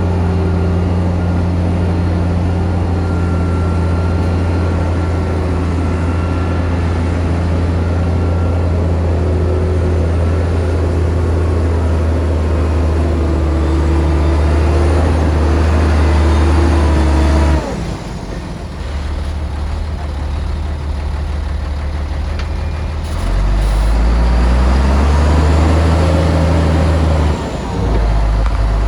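Heavy construction machinery's diesel engine running steadily under load. The note changes abruptly about two-thirds of the way through, then revs up for a few seconds and drops back sharply near the end.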